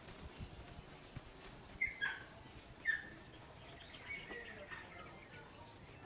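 Birds calling: two short, sharp chirps about two and three seconds in, then a run of fainter falling notes.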